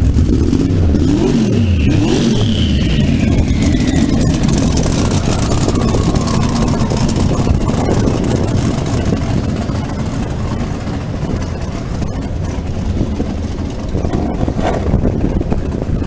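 The dragster's fuel-injected Holden 202 straight-six running loud and continuously with heavy air rush. A whine falls steadily in pitch over the first few seconds.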